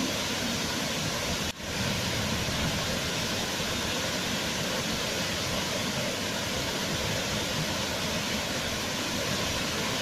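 Waterfall rushing, a steady, even roar of falling water, with a momentary dip in the sound about one and a half seconds in.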